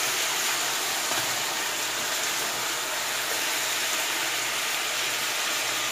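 Chicken frying in a pan, a steady even sizzle.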